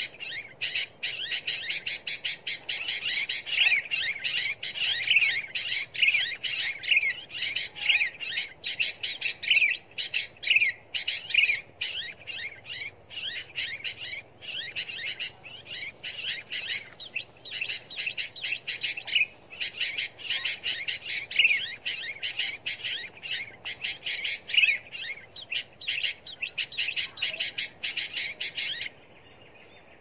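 Small birds chirping and twittering rapidly and without pause: a dense run of high chirps that cuts off suddenly near the end.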